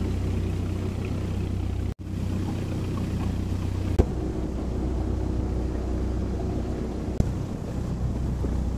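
Passenger boat's engine running with a steady low drone. It drops out for an instant about two seconds in, and there is a single sharp click about four seconds in.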